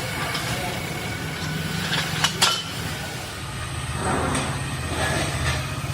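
Workshop machinery running with a steady low hum, broken by sharp metal clinks and knocks, two loud ones close together about two seconds in and several lighter ones later.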